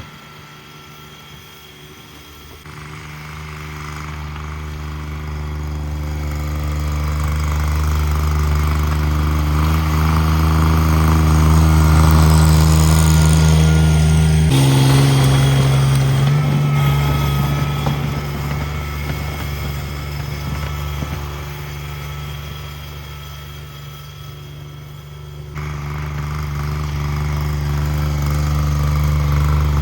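Cub Cadet 1782 garden tractor's twin-cylinder engine running steadily while plowing snow. It grows louder toward the middle, drops in pitch about halfway, fades, and picks up again near the end.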